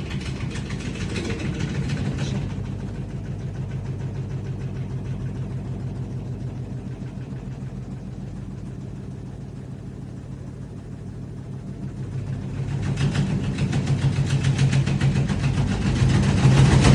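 Washing machine drum spinning: a steady mechanical hum with a fast, even pulse. It grows louder about twelve seconds in as the spin speeds up.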